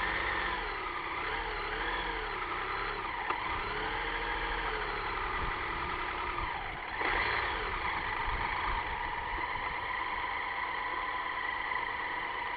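Strong wind rumbling and buffeting, with a wavering whistle that rises and falls in pitch and swells louder about seven seconds in.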